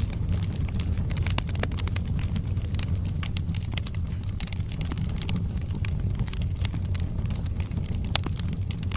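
Wood fire burning in a fireplace: a steady low rumble of flames with frequent irregular crackles and pops from the logs, one sharper pop about eight seconds in.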